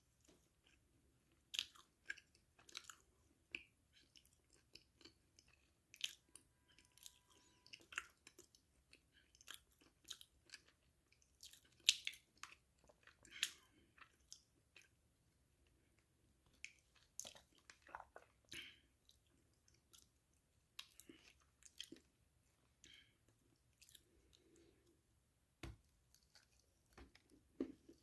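A person chewing crunchy food, with irregular sharp crackles and crunches throughout.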